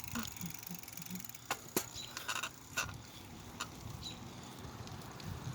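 Bicycle being ridden: a handful of sharp clicks and knocks over a steady low rumble of tyre and wind noise.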